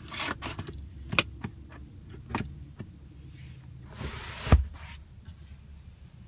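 Several sharp plastic clicks, then a short scrape ending in a low thump about four and a half seconds in, from the rear centre armrest and its dual cup holder being handled.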